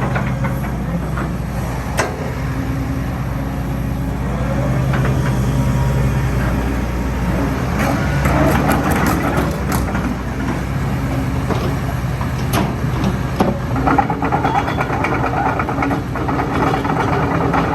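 Hitachi ZX120-3 hydraulic excavator's diesel engine running steadily, with sharp clicks and clattering metallic knocks now and then, thickest about halfway through and again near the end.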